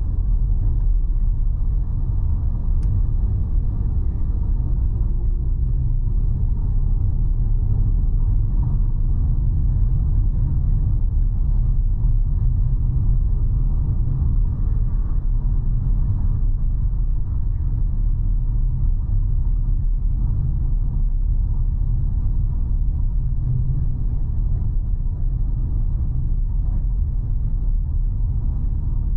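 Steady low rumble of a car driving along a road: engine and tyre noise with no change in pace.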